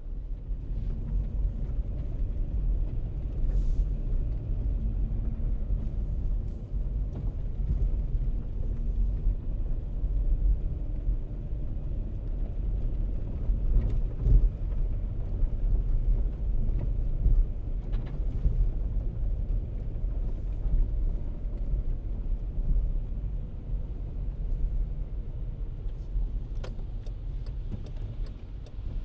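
Car driving, heard as a steady low rumble of road and engine noise with a faint hum and occasional light clicks.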